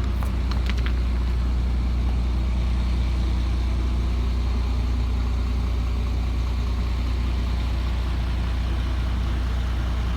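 Isuzu 7.8-litre turbo diesel of a GMC C6500 box truck idling steadily with a low hum. A few light clicks sound in the first second.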